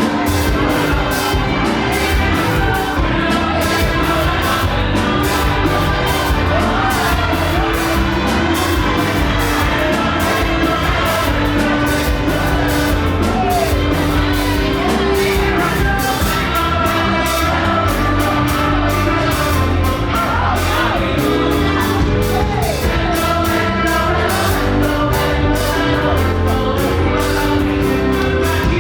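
Live fast gospel praise music in a large hall: a band plays a driving, rapid beat while a crowd sings along, with shouts and whoops.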